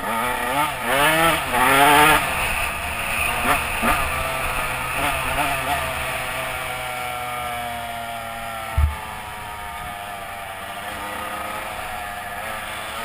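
Dirt bike engine revved in several quick blips over the first couple of seconds, then a long engine note that slowly falls in pitch. A short low thump about nine seconds in.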